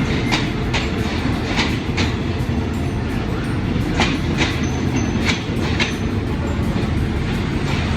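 Train running on rails: a steady low rumble with repeated sharp clacks of the wheels over rail joints, some coming in pairs.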